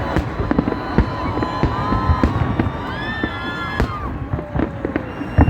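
New Year fireworks going off: a dense string of bangs and pops, with whistling tones rising and falling in the middle and a loud bang near the end.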